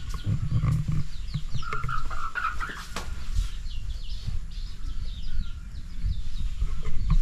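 Small birds chirping repeatedly in quick, high, falling chirps, with a lower, louder call about two seconds in. Underneath runs a low rumble with soft knocks.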